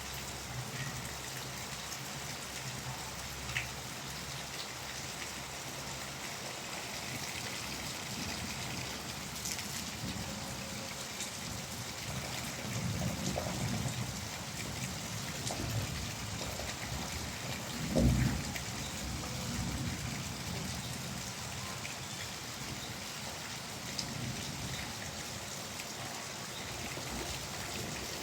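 Steady rain falling, an even hiss of drops on surfaces. A few low dull rumbles come and go, and one short low thump stands out about two-thirds of the way through.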